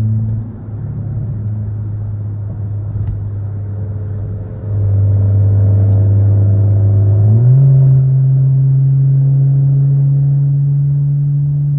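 Chrysler 300's engine droning steadily while driving. It gets louder about halfway through, and a little later its pitch steps up as the revs rise.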